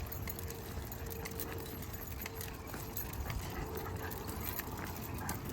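Metal dog tags and leash clips jingling in scattered small clicks as a pack of dogs walks, over a steady low rumble.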